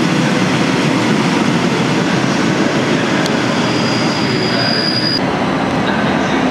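Regional electric multiple-unit train pulling out of the platform, a steady loud rumble of wheels on rail. About four seconds in a thin high wheel squeal sounds for about a second and stops suddenly.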